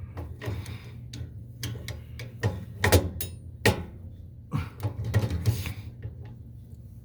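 Scattered metal clicks and knocks from hand tools working a screw and fittings loose on a gas boiler's pilot assembly, with a cluster of quick knocks just after halfway, over a steady low hum.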